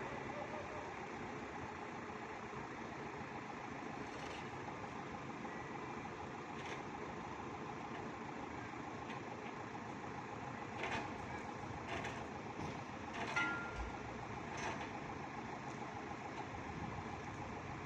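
A heavy truck's diesel engine running steadily, with a few sharp clanks in the second half.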